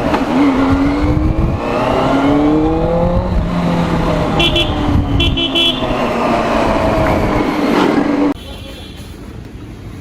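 Motorcycle engine, the Benelli 600i's inline-four, running in traffic, its pitch rising and falling as the throttle opens and closes. Short horn beeps sound twice in quick groups around the middle. The sound drops abruptly to a quieter background near the end.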